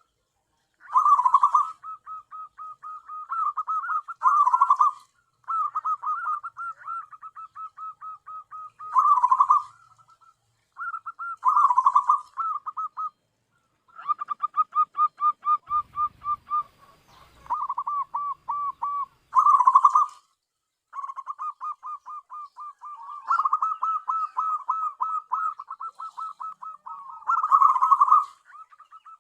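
Zebra dove (perkutut) calling: phrase after phrase of rapid staccato notes, repeated with short pauses between them.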